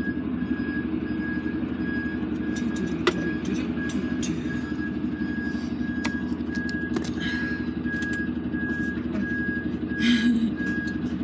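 Truck diesel engine idling steadily, with a high electronic beep repeating about twice a second, like a reversing or warning alarm. A few sharp clicks and a short hiss about ten seconds in.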